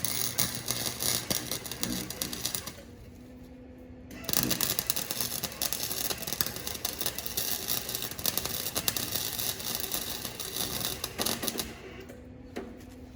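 Cheap arc welder crackling and sputtering as it welds an exhaust pipe, in two passes: one of about two and a half seconds, then a pause, then a longer one of about eight seconds.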